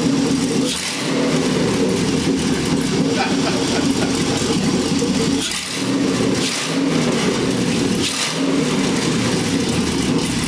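GM LS1 5.7-litre V8 running in a Hupmobile street rod, idling steadily, with the engine note dipping briefly three times. It runs shortly after a large vacuum leak was found.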